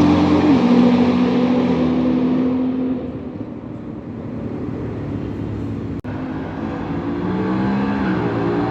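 Car engines running on a racing circuit, their pitch stepping up and down. The sound fades out around the middle and grows louder again toward the end, with a brief sharp break about six seconds in.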